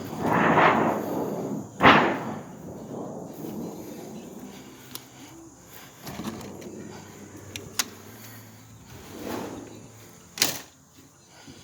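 A door sliding, then banging shut just before two seconds in, followed by a few light clicks and another sharp bang near the end.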